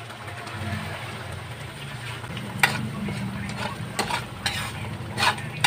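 Shrimp paste with green chilies sizzling in a wok while a spatula stirs it, scraping and knocking against the pan a few times in the second half.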